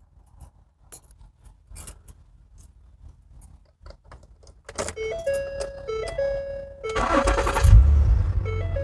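Faint jingling of keys, then a tinkling run of melody-like tones begins about five seconds in. About seven seconds in, a Ford Flex's V6 engine cranks and starts, then settles into a steady idle under the tones.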